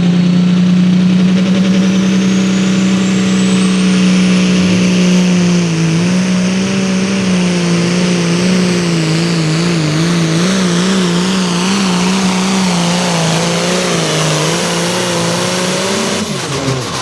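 Turbocharged diesel engine of a Ford 9600 pulling tractor at full throttle hauling the pulling sled, with a high turbo whistle climbing in pitch over the first several seconds and then holding. The engine note wavers from about six seconds in and drops away suddenly near the end as the pull finishes.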